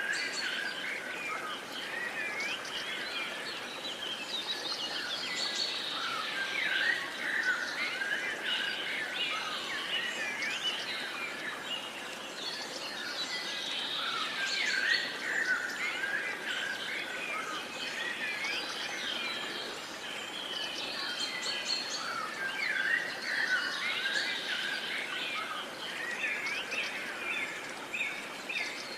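Many songbirds singing and calling at once: a dense chorus of overlapping chirps and whistles over a steady outdoor hiss.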